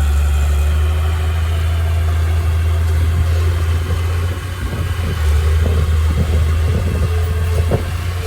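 Engine of a heavy earthmoving machine or truck running steadily with a low hum. It dips briefly about four and a half seconds in, then comes back with some rattling and a single knock near the end.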